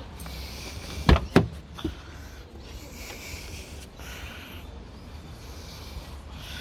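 Two sharp clicks about a second in, then a fainter third, over a steady low hum.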